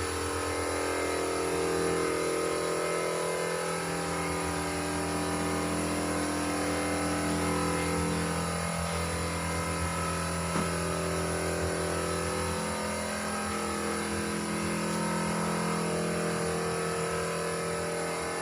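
Steady mechanical hum of a running motor, unchanging throughout, with one short knock about ten seconds in.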